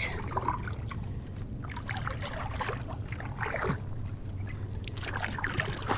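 Water trickling and splashing around a pedal-driven fishing kayak as it moves slowly through shallow water, over a low steady hum.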